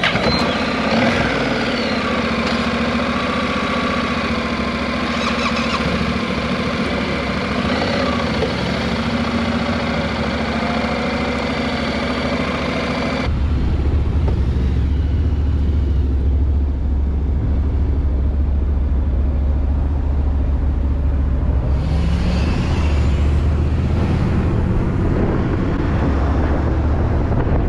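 Motorcycle engine running with road noise. About thirteen seconds in, the sound switches abruptly to a heavy low wind rumble on the microphone while riding.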